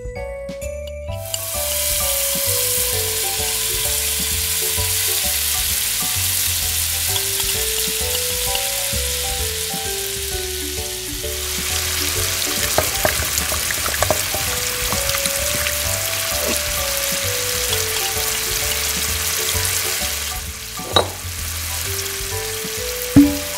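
Hot oil sizzling and frying in a miniature steel wok, a dense crackling hiss that starts about a second in, dips briefly near the middle, then eases off near the end, with a couple of sharp clicks.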